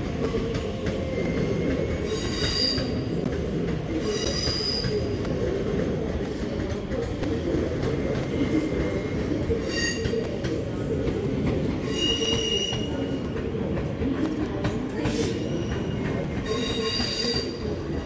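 A train rolling slowly with a steady rumble, its wheels giving several short high squeals on and off, the flange squeal of wheels on curved track.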